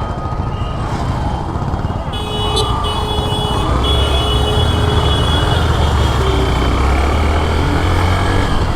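Riding a motorcycle through city traffic: steady engine and road rumble, with other vehicles' horns sounding as steady tones from about two seconds in to about six seconds in.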